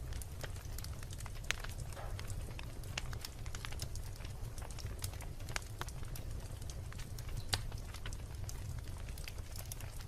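Wood fire burning in a fireplace: a steady low rumble of the flames with irregular sharp crackles and pops from the logs, two of them louder, about a second and a half in and about seven and a half seconds in.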